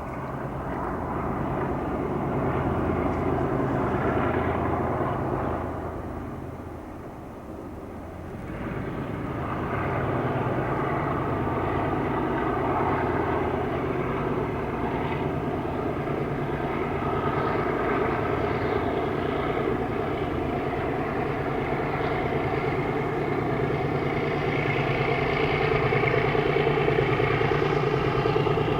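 MLW diesel locomotive's ALCO 251 engine running: a steady, loud drone with several even pitched tones. It dips briefly about seven seconds in, then grows louder toward the end.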